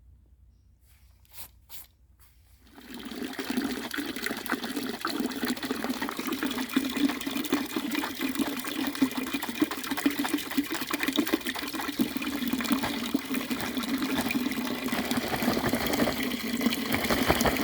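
Running water pouring steadily onto a Gore-Tex rain jacket in a waterproof test, starting about three seconds in after two faint clicks.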